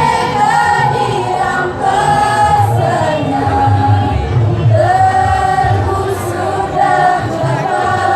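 A choir singing long held notes, with a low accompaniment underneath.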